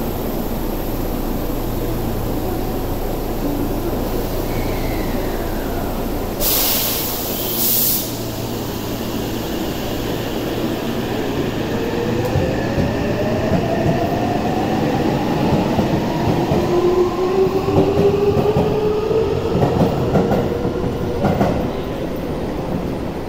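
Electric commuter train pulling out of an underground platform. A short sharp air hiss comes about six seconds in. From about twelve seconds the traction motors' inverter whine rises steadily in pitch as the train gathers speed, over a steady rumble of wheels on rail.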